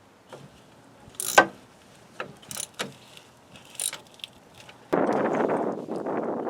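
Metal parts and hand tools clinking and knocking while a CV shaft is fitted under a car: several sharp metallic clanks, one about a second in much louder and ringing. About five seconds in, a loud steady rushing noise starts.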